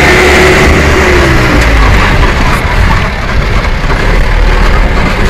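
Vehicle engine and road noise during a drive. The engine's tone drops about one and a half seconds in, then steady rough road noise follows.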